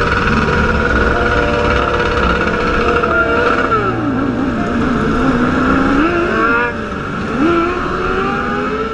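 Sport motorcycle engines running together and revving, their pitch falling and rising several times, with a brief drop in level near the end.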